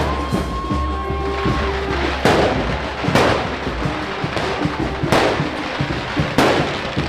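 Five sharp firework bangs at uneven intervals, each with a short echoing tail, over continuous music.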